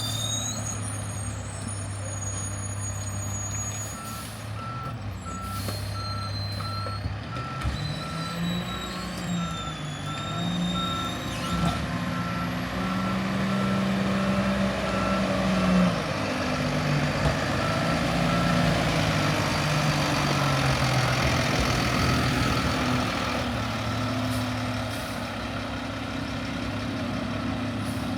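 Garbage truck backing up: its reversing alarm beeps steadily, about one and a half beeps a second, starting about four seconds in and stopping a few seconds past the halfway point, over the truck's engine, which revs up and settles in the middle.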